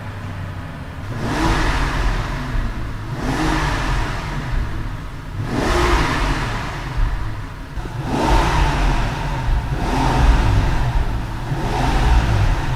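Car engine revving in repeated surges, about one every two seconds, over a steady low rumble.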